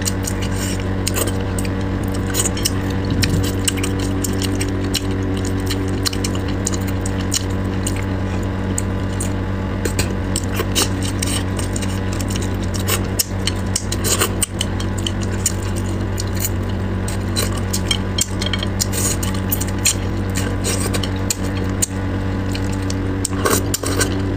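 Close-miked eating of spicy braised crucian carp: wet chewing and sucking on fish bones, with many short clicks of chopsticks and bones, over a steady low hum.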